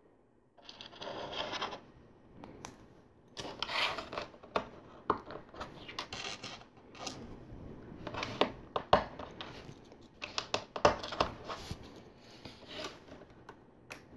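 LEGO plastic pieces being handled and fitted together: several spells of scraping and rattling, with many sharp clicks throughout.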